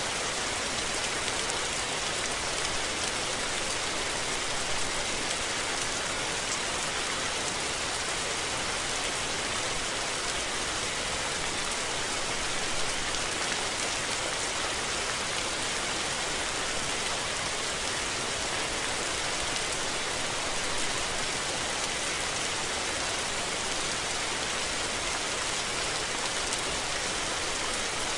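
Steady rain falling, an even hiss of many drops without pause or thunder.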